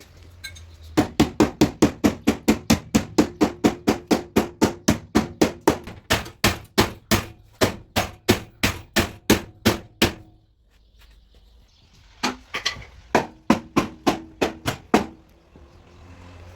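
Body hammer striking a car's sheet-metal body panel in a fast, even run of blows, about four or five a second, to beat out a dent. After a short pause, a second, shorter run of blows follows.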